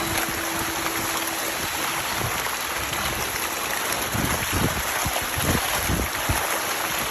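Tilapia churning and splashing at the water's surface as they feed: a steady rush of splashing water, with heavier irregular splashes in the second half.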